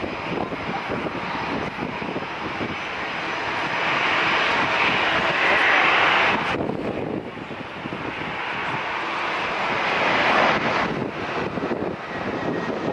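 Airliner engines giving a loud, steady rushing noise. It swells about a third of the way in, drops off sharply around halfway, then swells again near the end.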